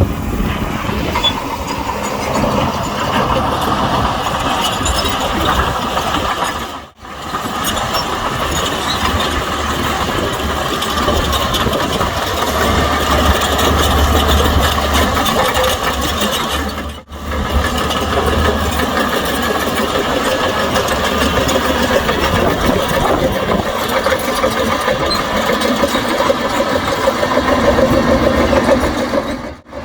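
Diesel engines of heavy earthmoving machinery (bulldozer and dump trucks) running steadily, with a deep low engine note strongest near the middle. The sound cuts out briefly twice.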